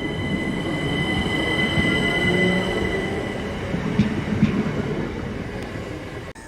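Train running along the track with a steady high-pitched wheel squeal over the rumble of the wheels, and a couple of sharp clunks about two thirds of the way in. The sound cuts off abruptly near the end.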